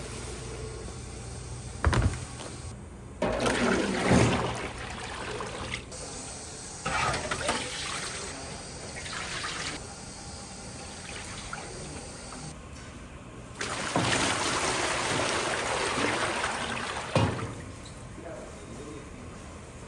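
Water running and pouring in several spells, the longest lasting about three seconds, with a few sharp knocks of kitchen utensils between them.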